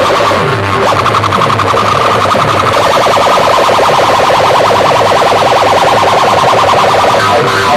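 Loud electronic DJ track played over a big sound system: a fast warbling, siren-like tone over a repeating falling bass pattern.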